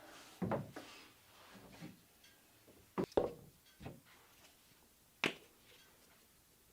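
A handful of separate knocks and clatters of objects being handled: one about half a second in, a close pair about three seconds in, a lighter one just after, and a sharp one a little past five seconds.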